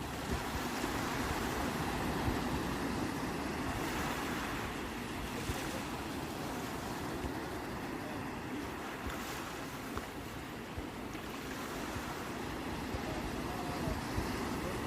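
Sea waves washing and breaking on the shore as a steady rushing noise that swells and eases slowly, with wind buffeting the microphone as a low rumble.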